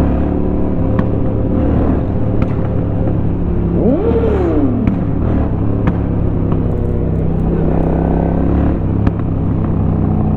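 2004 Honda Shadow 750's V-twin engine running steadily at cruising speed, with wind rushing over a helmet-mounted microphone. About four seconds in, a brief tone rises and then falls over the engine.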